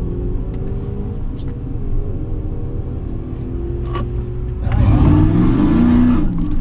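Drag-race vehicle engines running at a steady low rumble, then an engine revs up and back down about five seconds in, louder than the rest.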